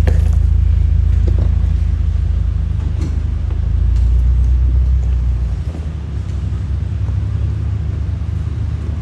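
A 4x4's engine running at low speed, a steady low rumble that eases off a little past halfway, with a few light knocks.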